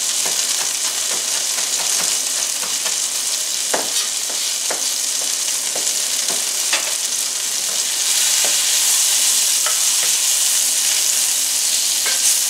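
Sliced mushrooms sizzling as they brown in butter and chicken drippings in a stainless steel skillet: a steady frying hiss with scattered small sharp clicks. It grows a little louder about two-thirds of the way in.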